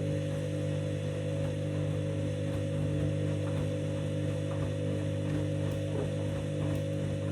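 Candy front-loading washing machine running near the end of its main wash, a steady hum made of several fixed low tones with faint soft ticks over it.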